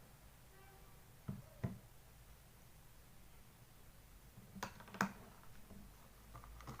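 A spoon and containers being handled while shampoo is spooned into a mixing bowl: a few light clicks and taps, two about a second and a half in and two more around five seconds in, over quiet room noise.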